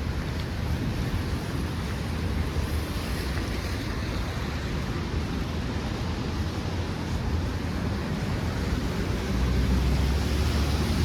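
Steady city street noise: a low rumble under an even hiss, getting louder about nine seconds in.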